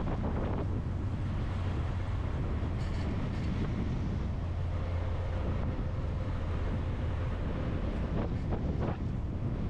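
Steady low road rumble of a vehicle driving at speed, engine and tyre noise with wind noise.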